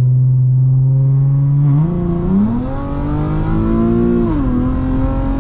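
Infiniti G37x's 3.7-litre V6 engine running steadily, then accelerating with the pitch rising about two seconds in; the revs dip briefly a little after four seconds in and then hold.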